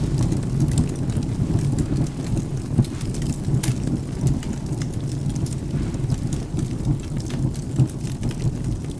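Steady rain with a continuous low rumble of thunder, and faint scattered clicks of drops or crackling over it.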